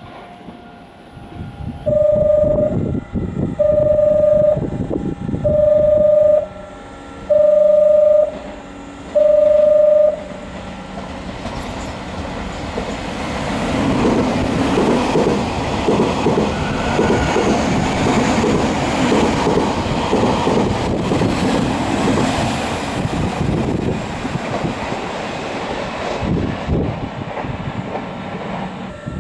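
A Nankai electric commuter train passes at speed, wheels rumbling and clicking over the rail joints, the noise swelling and then fading. Before it goes by, five loud evenly spaced beeps sound about two seconds apart.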